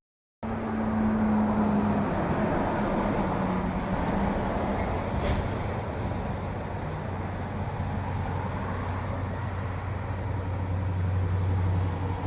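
Steady engine and road noise of a moving road vehicle, with a low hum throughout and a low tone that slides down in pitch over the first couple of seconds. The sound cuts in abruptly after a brief silence.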